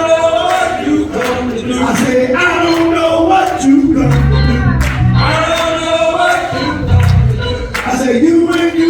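Gospel choir singing with instrumental accompaniment over a steady beat, with deep bass notes coming in about halfway through.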